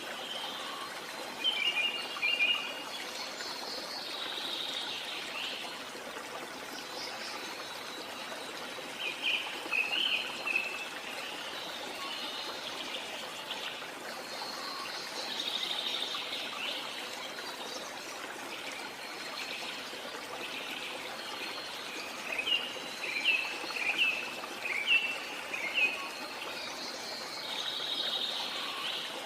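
Steady rush of running water from a jungle waterfall, with birds calling over it: a short call about two seconds in, a burst of chirps around ten seconds, and a run of quick chirps in the last quarter.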